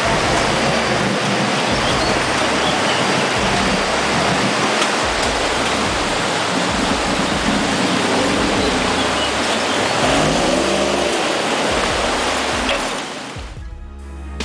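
Off-road truck powering through a water crossing: a loud, steady rush and splash of water thrown up around the truck, with its engine running and background music underneath. The splashing stops about a second before the end, leaving only the music.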